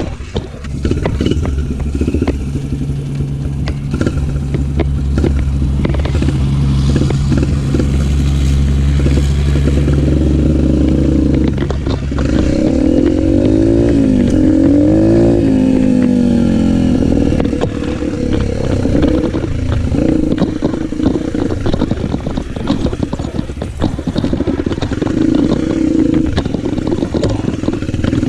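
Yamaha motocross bike's engine running with a steady low drone, then its pitch rises and falls as the revs change about halfway through, with some clatter.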